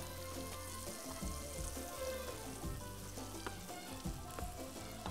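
Onions and chickpeas sizzling as they fry in a metal pan over a gas burner. A spoon clicks and scrapes against the pan now and then as the stuffing is stirred.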